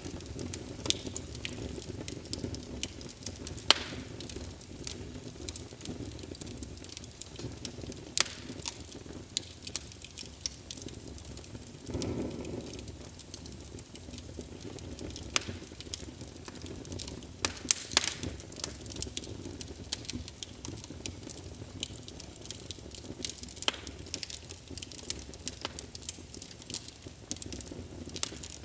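Wood fire burning in a fireplace: a steady low rumble of flame with irregular sharp crackles and pops from the burning logs, and a brief louder whoosh of flame about twelve seconds in.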